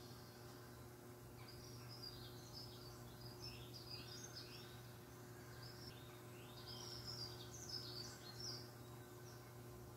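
Songbirds chirping faintly through a television's speakers in a few short runs of quick chirps, over a steady low hum.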